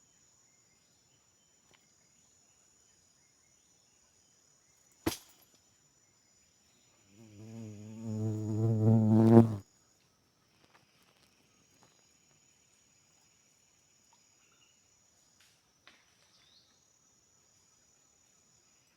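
Rainforest insects keep up a steady high-pitched buzz. A single sharp click comes about five seconds in. Around seven seconds a low, wavering pitched sound swells for about two seconds and then cuts off suddenly.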